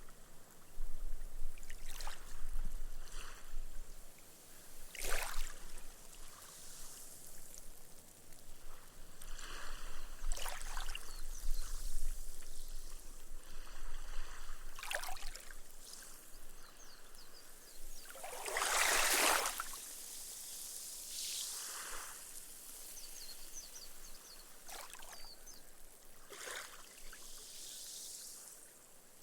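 Small, gentle waves lapping on a sandy beach. Each ripple washes up the sand and fizzes away as the foam soaks in, a few seconds apart, with the biggest wash about two-thirds of the way through.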